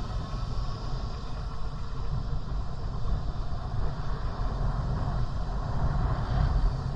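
Wind buffeting the microphone while cycling: a steady, choppy low rumble, with a fainter hiss of tyre and road noise over it.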